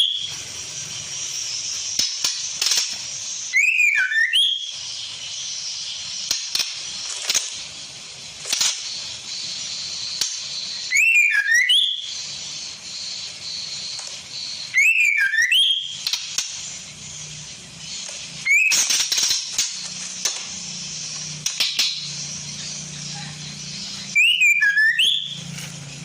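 Female white-rumped shama (murai batu) calls used as a lure to attract males: five short bouts of clear whistled notes that swoop up and down, spaced several seconds apart, over a steady high hiss.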